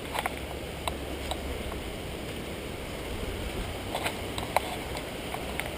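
Steady rush of a river in flood, with a low rumble in the first couple of seconds and a few scattered clicks and knocks.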